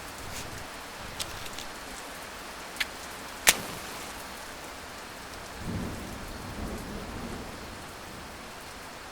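Steady heavy rain, with a low rumble of thunder about six seconds in. A few sharp clicks come through the rain, the loudest about halfway through.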